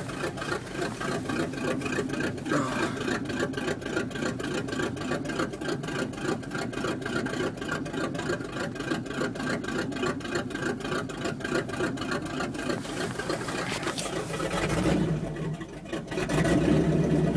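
1979 Chevrolet 350 small-block V8 running at idle on a cold start, with an even pulsing beat, kept alive after the carburetor was pumped by hand. Near the end it briefly drops, then comes back louder and deeper.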